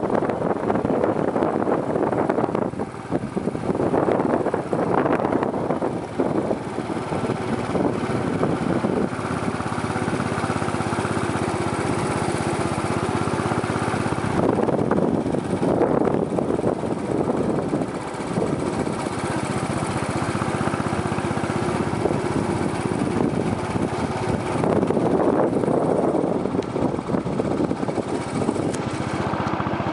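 Motorcycle engine running steadily as the bike is ridden, with swells of rushing noise now and then.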